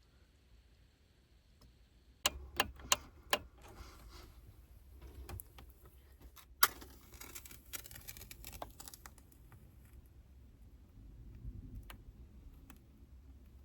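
Handling noises: a quick run of four sharp clicks or taps, then scattered lighter taps and rustling with one more loud click near the middle.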